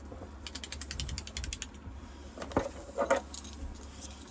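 Rapid ratchet-like clicking from a small mechanism, about ten clicks a second for a little over a second, followed by two short louder knocks about half a second apart.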